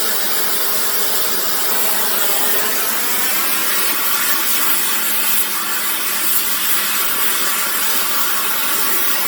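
Gas torch flame hissing steadily as it heats a steel sissy-bar rod ready for bending.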